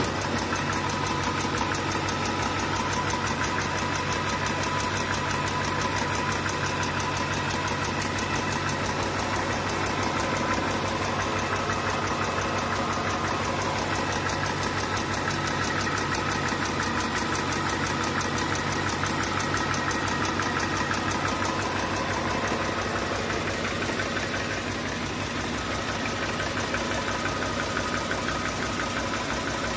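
An engine idling steadily, heard from beneath the vehicle, with an even rapid beat and a steady whine; it gets slightly quieter near the end.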